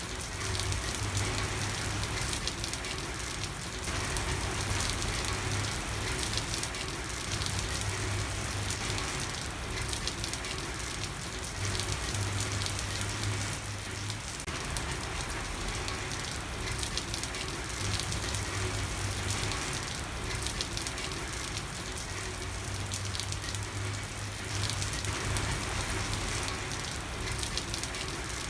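Steady rain falling on a street, an even hiss of drops with no pauses. A low hum rises and falls away every few seconds beneath it.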